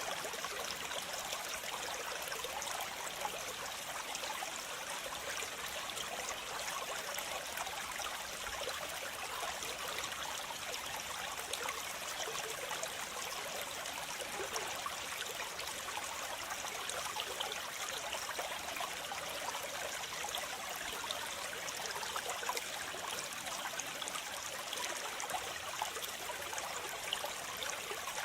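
Waterfall: water falling and splashing steadily, an even bright hiss with little deep rumble that does not change.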